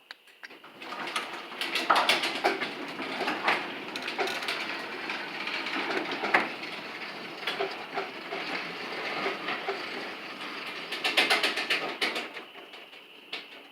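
Sectional garage door running along its track under an opener: a steady rumble with a rapid clatter of rollers and hinges. It starts about a second in and stops near the end.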